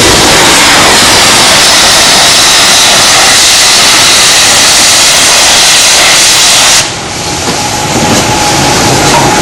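Steam locomotive venting a loud, steady hiss of steam that cuts off abruptly about seven seconds in, leaving a quieter low running rumble with a faint steady tone.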